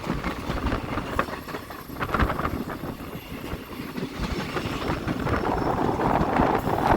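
Passenger train running along the track, a steady rumble with the wheels clicking over the rails.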